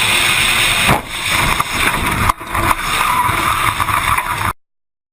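Dashcam recording of a car's steady road and wind noise, broken by sharp knocks about a second in and again about two seconds later. The sound then cuts off suddenly.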